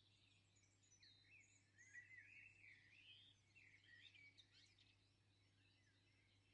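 Near silence: small birds chirping faintly over a steady low hum.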